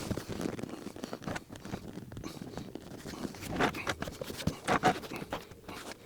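Hands working an upholstered car seat cover onto the seat: irregular taps, clicks and rustling of the cover being pulled and hooked in place.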